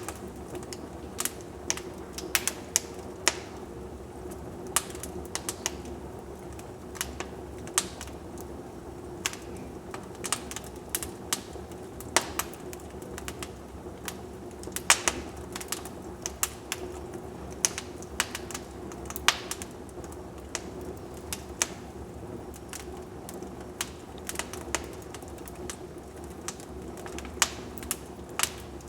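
Wood fire crackling in a fireplace: irregular sharp pops and snaps, several a second and varying in strength, over a steady low hum.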